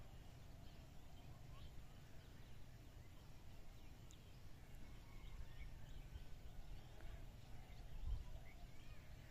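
Faint, scattered bird calls, short chirps and thin whistles, over a low steady rumble.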